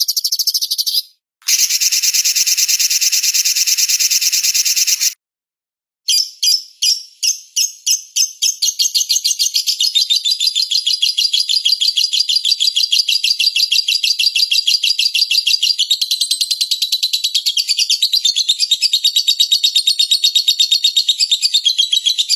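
Spliced recordings of small songbirds chirping in fast, high, pulsing runs of notes, cut off abruptly near 1 s and again about 5 s in, with a second of silence before a long rapid chatter resumes.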